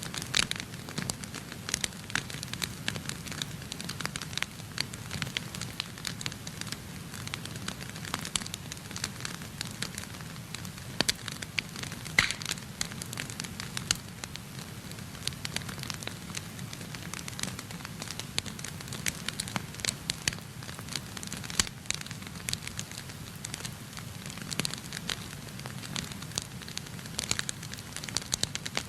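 Wood fire burning in a fireplace, crackling steadily with frequent irregular pops over a low, steady rumble of flame. One pop about twelve seconds in is the loudest.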